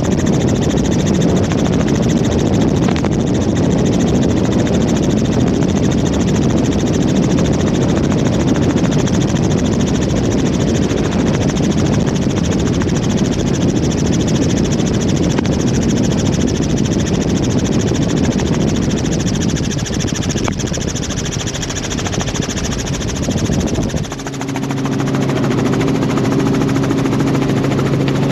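Helicopter in flight: a steady, loud rumble of rotor and engine heard from inside the cabin. Near the end the rumble eases and a steady droning hum of a few pitches comes through.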